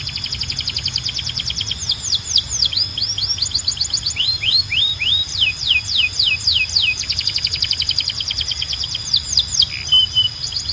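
Domestic canary singing a continuous song of fast trills, broken by runs of quick downward-sweeping whistled notes.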